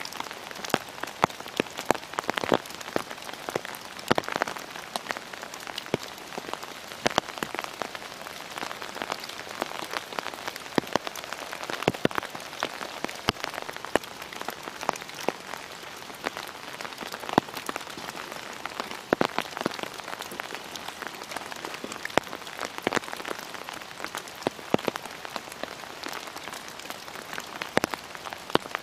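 Steady rain, with many sharp, close drops ticking irregularly over a soft hiss.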